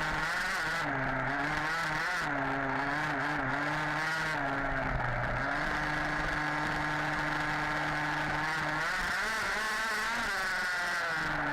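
HPI Baja 5B's two-stroke petrol engine running under varying throttle, its note rising and falling, held steady for a few seconds in the middle, then dropping and climbing again near the end, with some clatter.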